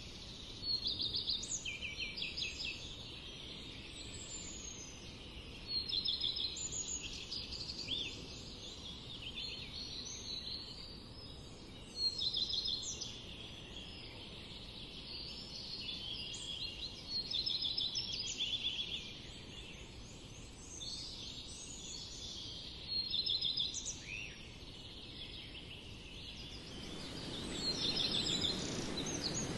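Small songbirds chirping in quick trilled bursts, one burst every couple of seconds, over a low steady hiss. Near the end a low rushing noise swells up.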